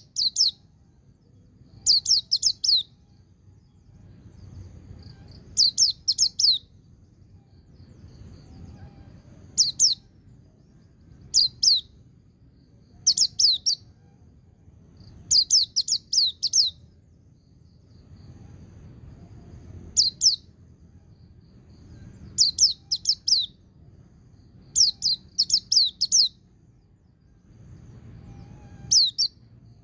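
White-eye (pleci) singing in its ngalas style: short clusters of two to six rapid, high, falling 'tick' notes, repeated every second or two, with brief gaps between. A faint low background rumble runs underneath.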